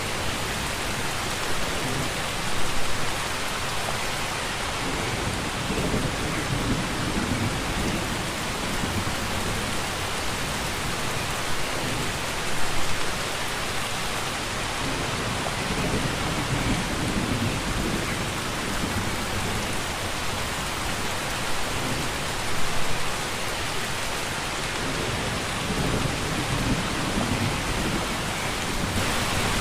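Steady rain in a thunderstorm, a dense even hiss, with low rumbles of thunder swelling up three times, about ten seconds apart.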